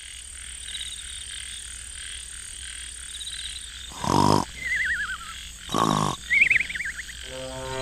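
Animal calls: a steady, pulsing high-pitched chorus, with two loud low calls about four and six seconds in, each about half a second long, and warbling whistles in between.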